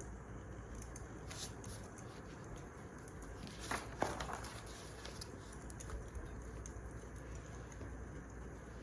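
Wood fire crackling, with a steady hiss and scattered small pops, and a brief burst of louder crackles about halfway through.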